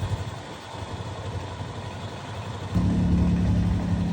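Can-Am three-wheeled motorcycle engine idling just after starting, then stepping up to a louder, steady run about three seconds in.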